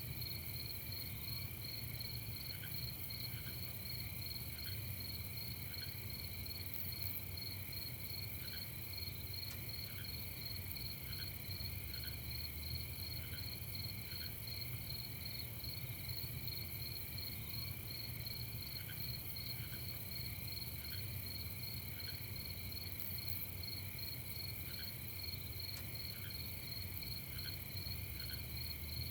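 A night chorus of crickets trilling steadily at several pitches, one of them pulsing rapidly. Short single chirps at a lower pitch come in every second or two, over a faint steady low rumble.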